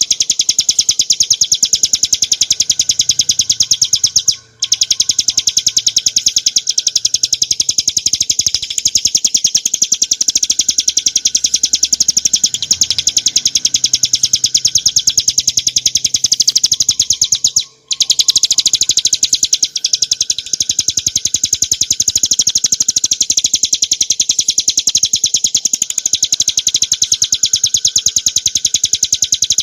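Ciblek gunung prinia singing a loud, continuous song of very fast repeated high notes, breaking off briefly twice, about four seconds in and again about eighteen seconds in.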